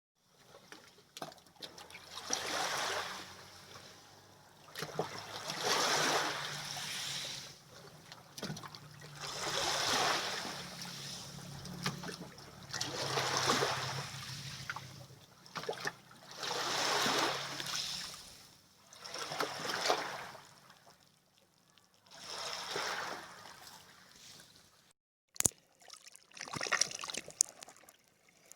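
Water washing and splashing in regular surges, about one every three and a half seconds, over a low steady hum that fades out partway through. Near the end there is a sharp click, then a brief splash.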